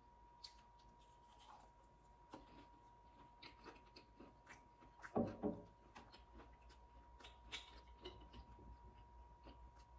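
Close-up eating sounds of a breaded fried butterfly shrimp being chewed: soft crunches and small wet mouth clicks, with one louder short sound about five seconds in. A faint steady high tone runs underneath.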